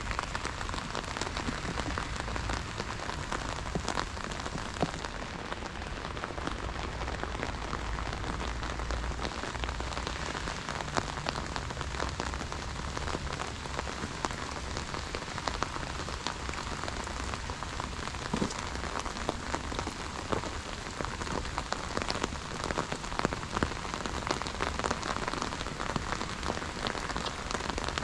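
Steady rain falling, a dense patter of drops on wet paving.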